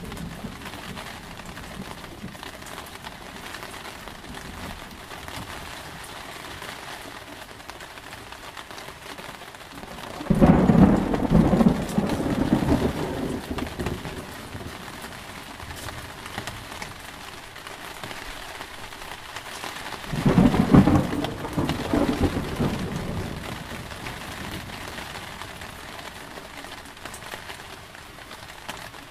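Steady rain falling, with two rolls of thunder: one about ten seconds in and another about twenty seconds in, each swelling loud and then rumbling away over a few seconds.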